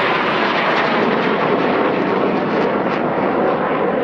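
Jet aircraft flying past, its engine noise loud and steady, easing off slightly near the end.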